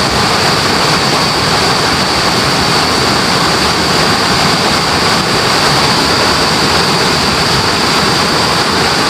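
River water rushing steadily, with a steady high-pitched tone held above it.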